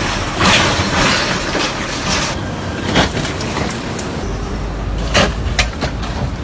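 Vehicle running with a noisy rumble, a loud rush of noise about half a second in, and sharp knocks around three seconds and five seconds in.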